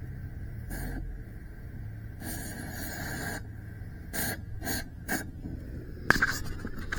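Propane cutting torch burning steadily while it heats the metal, with a few short knocks and scrapes in the second half.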